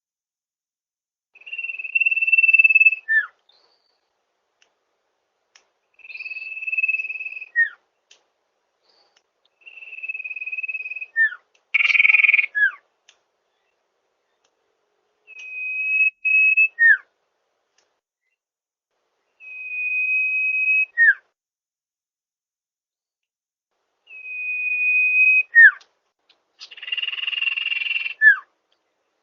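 Common iora (cipoh) singing its lure song over and over, about every four seconds: a long steady whistle followed by a short note that drops quickly in pitch. Twice the whistle comes out harsher and buzzier.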